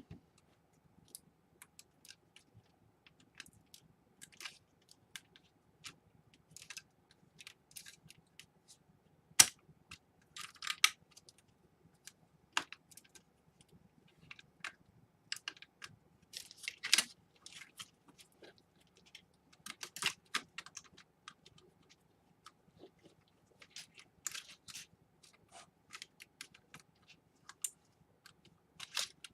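Irregular light clicks, taps and short scraping rustles of small laptop parts being handled and fitted, with one sharper knock about nine seconds in.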